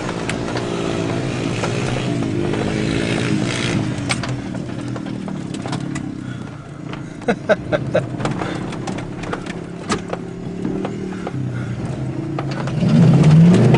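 Off-road vehicle engine revving up and down, then running more steadily with a few sharp knocks and rattles. Near the end it revs up again, louder.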